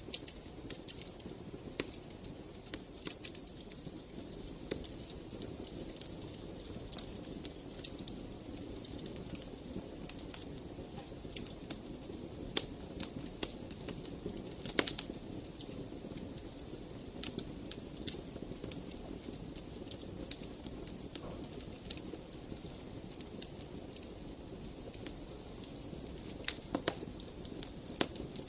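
Fire burning in a fireplace, crackling, with irregular sharp pops and snaps over a steady low rumble. A few pops stand out louder, one about halfway through and another near the end.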